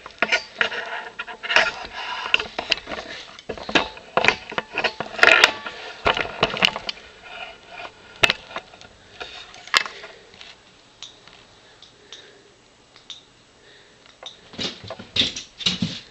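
Irregular clicks, taps and scrapes in a small room, busy for the first ten seconds or so, then sparse, then busier again near the end.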